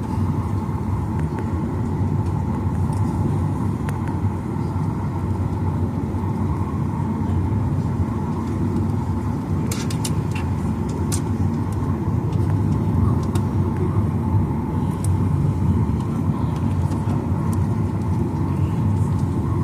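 Steady low rumble inside the cabin of a Boeing 737-900ER airliner on the ground before takeoff, with a constant hum and a few faint clicks near the middle.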